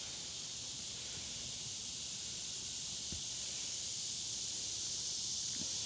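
Steady high-pitched hiss with no speech, and a few faint taps about three seconds in and near the end.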